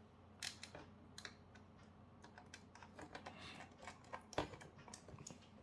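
Faint, scattered light clicks and taps from hands handling small parts and tools, with one slightly louder click a little past four seconds in.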